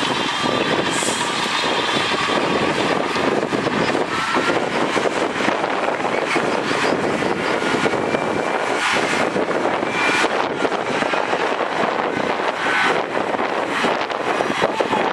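Heavy earthmoving machinery at work: diesel engines running steadily under load, with a faint high whine and occasional clanks.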